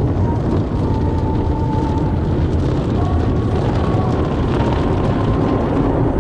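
Automatic car wash running around the car: a steady, loud rumble and rush of machinery and spraying water.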